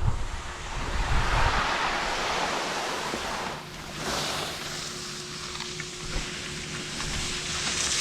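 Skis hissing and scraping over snow, with wind buffeting the microphone. The noise eases about halfway through.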